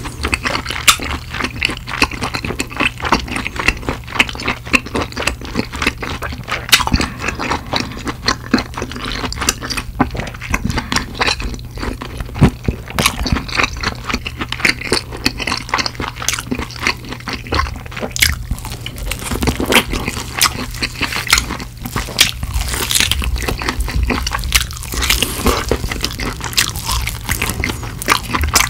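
Close-miked chewing of crispy-coated BBQ Cheesling fried chicken: dense, irregular crunching and crackling of the coating, with a fresh bite into a drumstick near the end.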